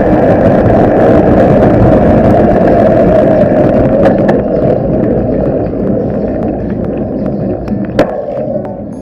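Wind buffeting a bike-mounted camera microphone, with tyre and road rumble from a bicycle rolling along. It eases a little in the second half, with a single sharp click near the end.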